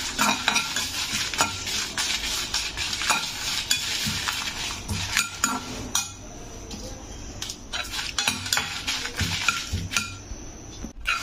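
Dried red chillies, garlic cloves and cumin seeds sizzling in hot oil in a steel kadai, with a steel spoon scraping and clinking against the pan as they are stirred. The sizzle is fainter for a few seconds past the middle.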